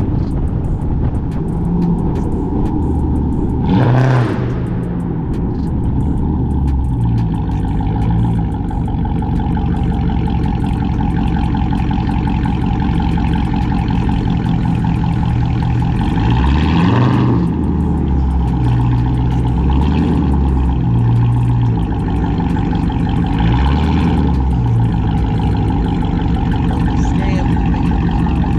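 Cammed, catless, straight-piped Chrysler 300C HEMI V8 exhaust running loud while driving, its pitch shifting with the throttle. There are three short louder surges, about 4, 17 and 24 seconds in.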